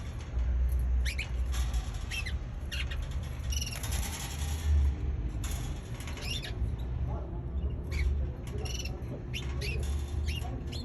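Baby canary giving short, high chirps at irregular intervals, over a steady low rumble.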